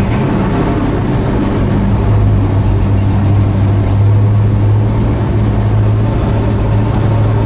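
1972 Chevy Monte Carlo's V8 running steadily with an even low drone. The engine has sat for months and only starts with starting fluid sprayed into it.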